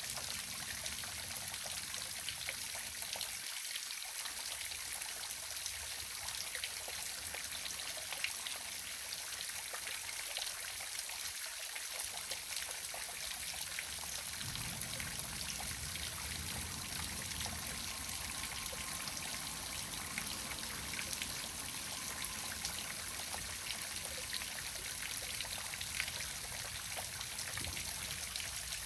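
Waterfall: a steady rush of falling water, trickling and splashing, with many small droplet ticks over an even hiss.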